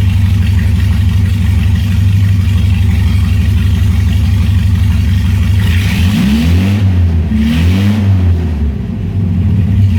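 1970 Opel GT's four-cylinder engine idling steadily, then revved twice in quick blips about six and seven and a half seconds in, each dropping cleanly back to idle. The engine is freshly restored, with its ignition timing not yet set.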